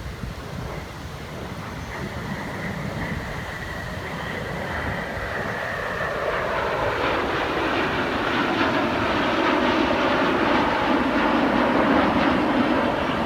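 Airplane flying in overhead, its engine noise growing steadily louder, with a high whine that sinks slightly in pitch before the full roar builds toward the end.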